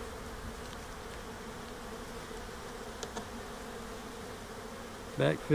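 Honeybees buzzing as a steady hum around an open hive, with a faint click about three seconds in.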